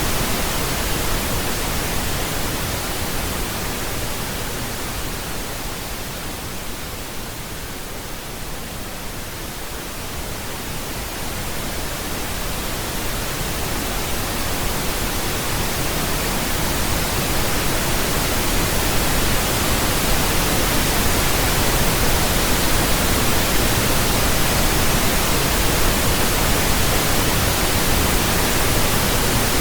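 Steady pink noise, an even hiss weighted toward the bass. It fades down slowly to its quietest around eight seconds in, then swells back up.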